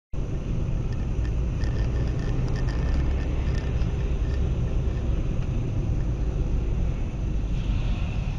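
Steady low rumble of a car driving, engine and road noise, beginning abruptly out of silence.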